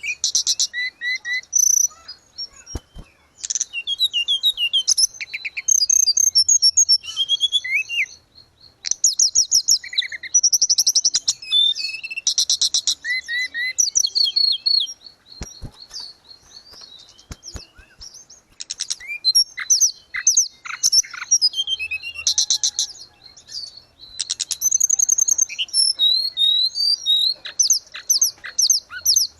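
Hill blue flycatcher (tledekan gunung) singing a long run of fast, varied high twittering phrases and trills in bursts, with short pauses between them.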